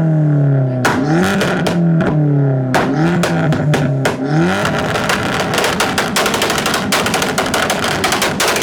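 A modified car's engine being revved over and over, each blip sweeping up sharply and then falling slowly back, about every second and a half. From about halfway the revving gives way to a fast, dense crackling.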